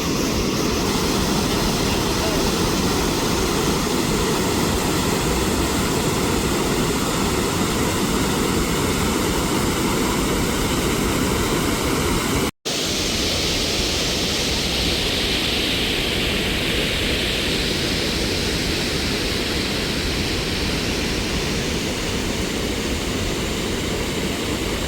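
Iguaçu Falls pouring: a steady, dense rush of falling water, heaviest in the low range. It cuts out for an instant about halfway, then resumes with a brighter hiss.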